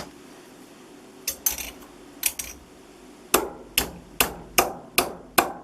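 A hammer striking a cut piece of sheet steel to flatten it out. There are a few scattered blows at first, then a steady run of six strikes at about two and a half a second.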